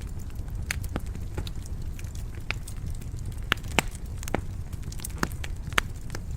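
Wood fire in a stone fireplace crackling, with irregular sharp pops over a low steady rumble of the burning logs; the loudest snaps come a little past halfway and near the end.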